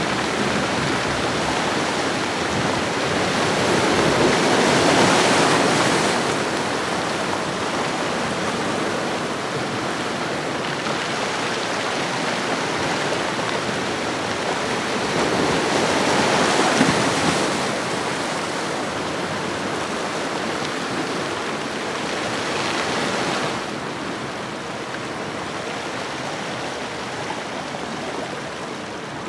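Ocean waves washing onto a shore as a continuous rush of surf, swelling and easing twice as larger waves break.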